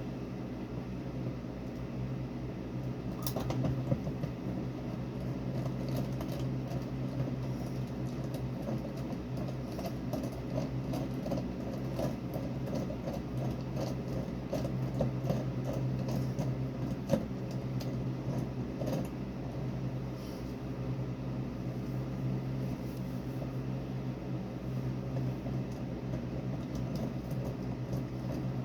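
Steady low mechanical hum with small clicks and taps scattered through it; a sharper tap comes about four seconds in and another around seventeen seconds.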